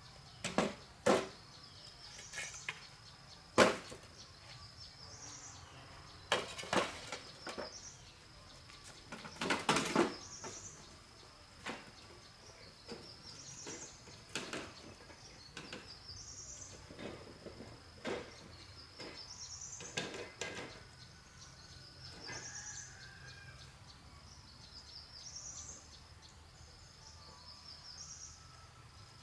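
Irregular sharp knocks and taps, loudest in the first ten seconds, over a steady high insect drone, while a bird repeats a short rising call about every two seconds.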